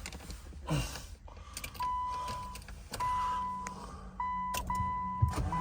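A car's electronic warning chime: a steady single-pitched beep sounds about four times from about two seconds in, each under a second long. A knock comes near the start and a low thump near the end.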